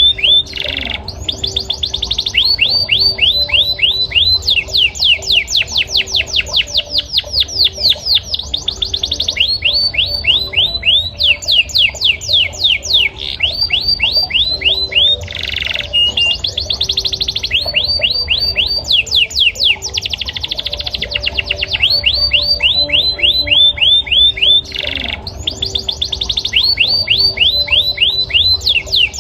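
Male yellow canary singing a continuous song of rapid trills. Each phrase is a fast run of one sweeping note repeated many times a second, and the song switches to a new phrase every second or two.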